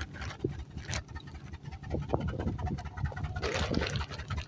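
Low, steady rumble of a truck on the move, with scattered light taps and a brief scraping noise near the end.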